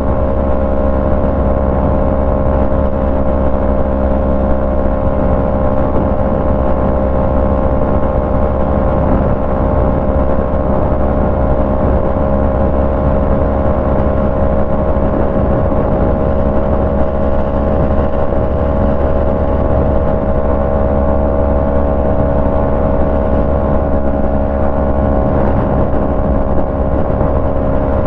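Yamaha MT-03's parallel-twin engine running through a Jeskap full aftermarket exhaust, holding one steady engine speed with no revving.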